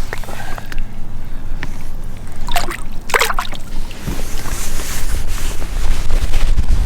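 Water splashing twice, about two and a half and three seconds in, as a caught bass is released into the lake, over a steady low rumble.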